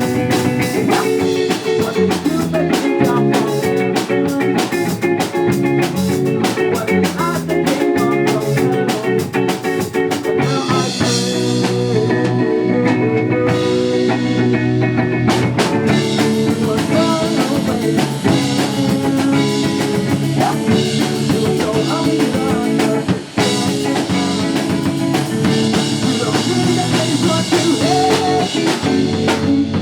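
Live band playing a rock song: drum kit with dense cymbal strokes over guitar. The cymbals drop out for a few seconds about a third of the way in, then come back.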